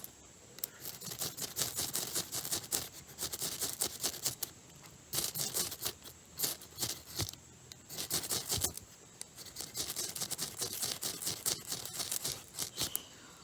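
A striker scraped quickly and repeatedly along a magnesium fire starter to throw sparks onto tinder, in several bursts of rapid, rasping strokes with short pauses between them. The tinder is not catching.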